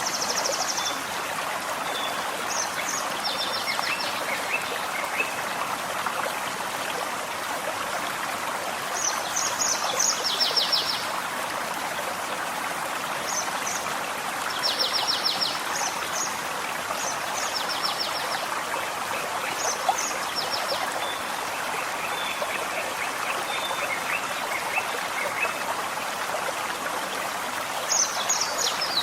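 Forest stream flowing steadily, with songbirds singing short repeated phrases that end in fast high trills every few seconds, and a lower trill twice.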